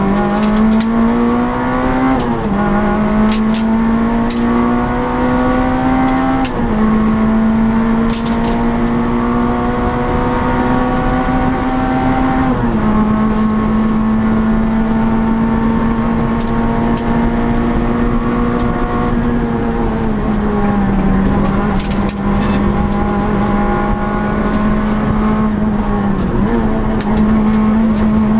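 Citroën Saxo Group N rally car's four-cylinder engine running hard at high revs, heard from inside the cabin. Its pitch climbs slowly through each gear, drops at upshifts, the first about two seconds in, and jumps back up at a downshift near the end. Scattered sharp ticks sound over it.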